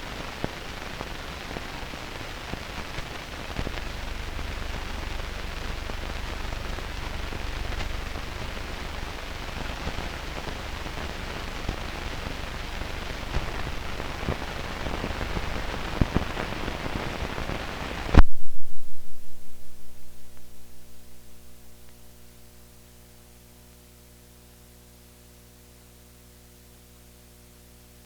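Crackling hiss from an old film soundtrack carrying no program sound. About 18 seconds in it cuts off with a sudden loud click. A pulsing buzz follows, fading over a few seconds into a steady low electrical hum.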